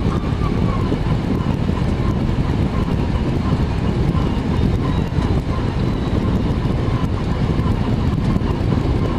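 Steady flight-deck noise of a Boeing 767 on approach: an even, loud rush of airflow and rain on the windscreen, with a faint wavering tone above it.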